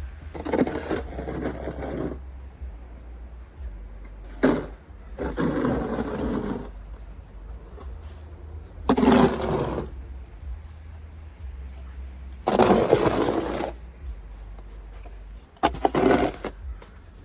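Snow shovel scraping and pushing through snow in repeated strokes, six of them a few seconds apart, each lasting about a second, over a low steady hum.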